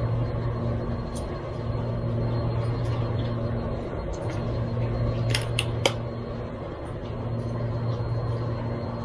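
A steady low hum, broken into stretches, with three quick sharp clicks a little past halfway.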